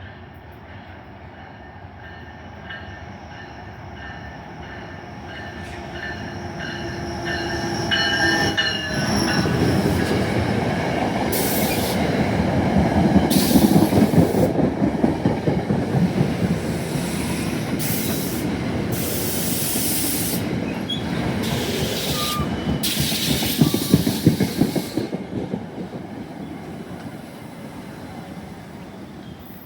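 A train rolling past close by, with the rumble and rattle of wheels on rail building over the first few seconds, loudest for most of the middle, then fading near the end. Repeated high-pitched bursts cut through while it is loudest.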